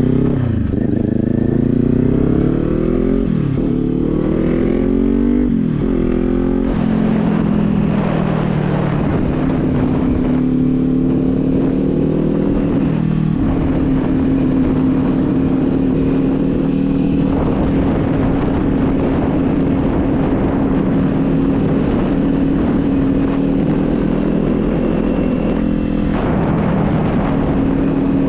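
Motorcycle engine through an aftermarket Leo Vince exhaust, accelerating up through the gears: the pitch climbs and drops back about three times in the first six or seven seconds, then settles into a steady note while cruising.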